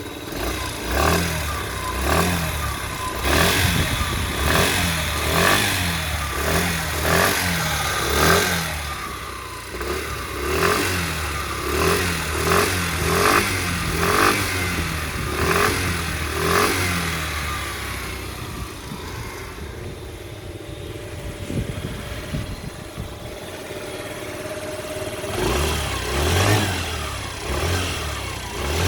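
2012 Kymco People S 50cc scooter engine blipped over and over from idle, a short rise and fall in revs about once a second, dropping back to idle for a few seconds and then blipped again near the end. On acceleration it makes a loud 'dkdkdkdk' note instead of the normal 'wrwrwr'; the owner has ruled out the cylinder head, compression, leaks and bearings and suspects something in the frame.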